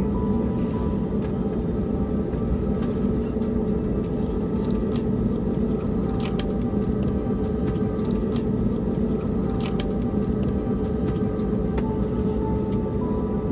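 Steady cabin rumble inside an Airbus A321neo on the ground after landing, with a constant hum and a few faint clicks.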